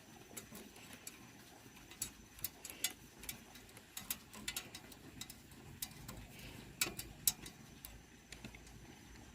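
Irregular light clicks and taps, some in quick clusters, over a low steady hum.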